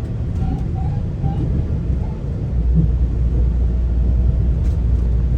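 A moving GO Transit bilevel passenger coach, heard from inside: a steady low rumble of the train running on the track, growing louder about two and a half seconds in.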